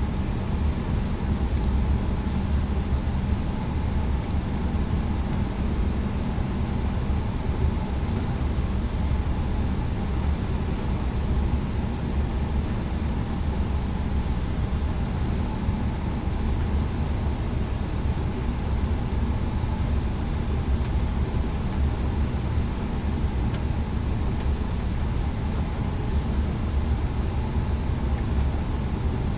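Cabin noise inside an Airbus A320neo airliner: a steady low rumble of engines and airframe that holds even throughout, with a few light rattles in the first few seconds.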